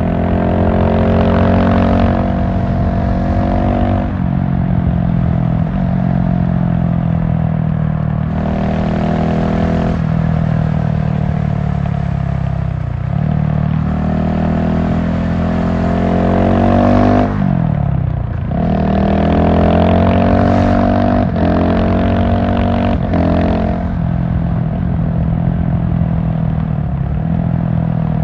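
GasGas SM700 supermoto's single-cylinder engine under way, the pitch climbing under acceleration and breaking off at gear changes. It dips low twice while slowing, about halfway through and again about two-thirds through, then pulls back up.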